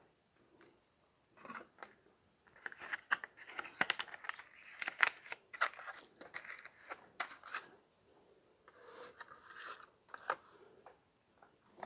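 Plastic packaging of a die-cast model car being handled: a dense run of crinkling, crackling and sharp clicks through the middle, then softer rustling.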